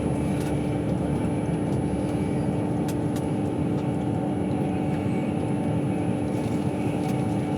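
Steady rumble of a moving Avanti West Coast passenger train heard from inside the carriage, with a constant hum and a few faint ticks.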